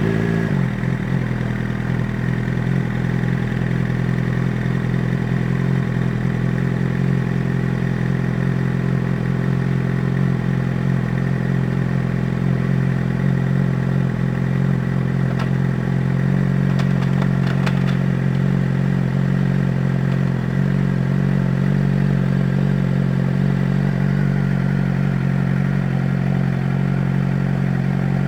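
Suzuki GSX-R600 inline-four motorcycle engine idling steadily, just restarted after a crash, while the rider checks that it still runs. A few faint ticks sound past the middle.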